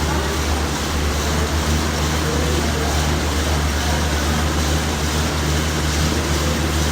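A steady low machine hum with an even rushing noise over it.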